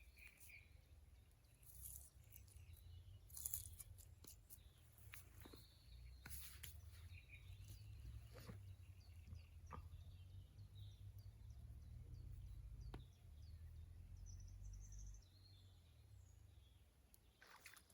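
Faint birdsong, short scattered chirps, over a low steady rumble, with a few brief clicks and knocks.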